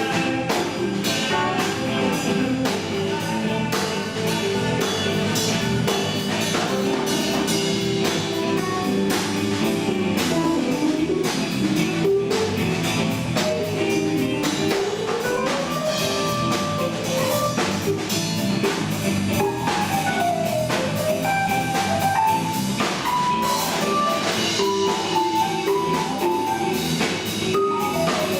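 A band playing with drum kit and guitar, a melodic lead line gliding up and down in pitch over a steady beat.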